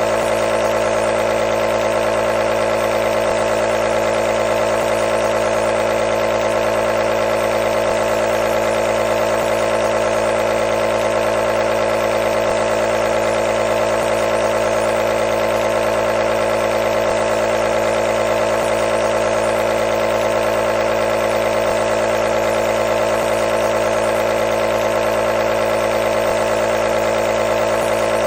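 Compressor nebulizer's small pump motor running continuously: a steady, unchanging buzzing hum.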